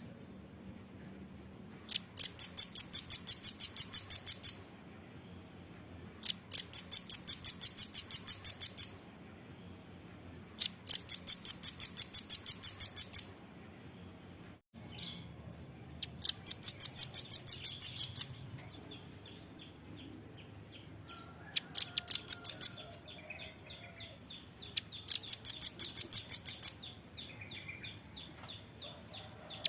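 Velvet-fronted nuthatch calling: six high-pitched trills of rapid, sharp chips, each one to two and a half seconds long and a few seconds apart, with fainter chips between them in the later part.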